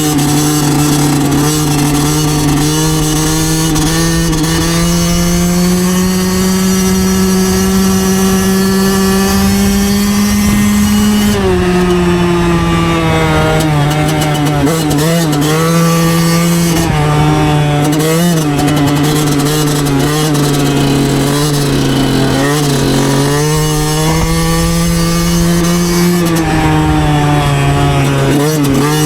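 2009 Yamaha YZ125 two-stroke engine under way at steady throttle, its pitch climbing slowly for several seconds and then dropping sharply about eleven seconds in. It then wavers with short throttle dips before rising again and easing off near the end, over wind noise.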